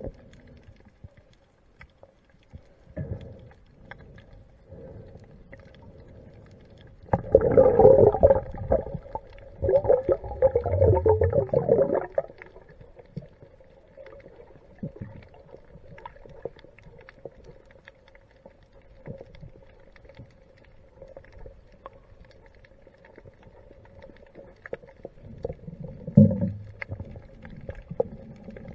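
Muffled underwater sound with a steady hum and scattered small clicks. A loud gurgling rush of bubbles and water movement comes twice, from about seven to twelve seconds in, and again briefly near the end.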